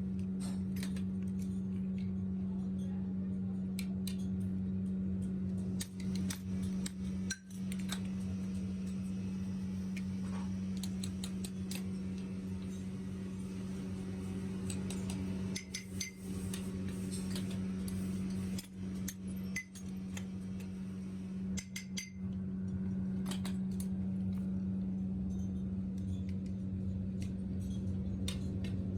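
Workshop machine's electric motor running with a steady hum, with light metallic clinks and clicks of metal parts being handled scattered throughout. The hum drops out briefly several times.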